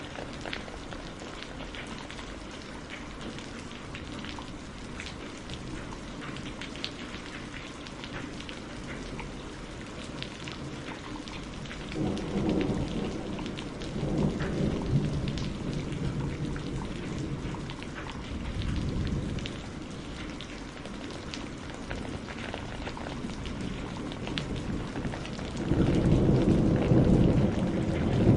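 Steady rain falling, a continuous hiss with fine drop ticks. Low rolls of distant thunder swell in twice near the middle, and a louder rumble builds near the end.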